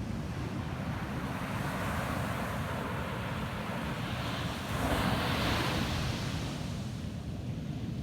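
Ocean waves on a sandy beach: surf swells and breaks, loudest about five seconds in, then washes out and fades. A steady low rumble of wind on the microphone runs underneath.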